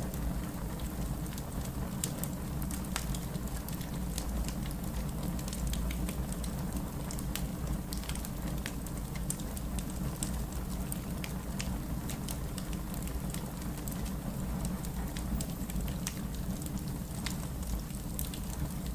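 Wood fire in a fireplace burning with a steady low rumble and many small, irregular crackles and pops.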